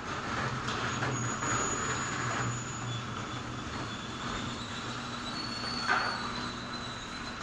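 Steady mechanical rumble with a low hum and faint thin high tones, and a brief louder knock about six seconds in.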